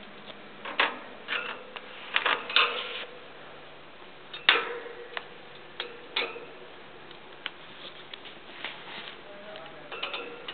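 Irregular sharp clicks and crunches from a barn owl eating, the loudest about four and a half seconds in.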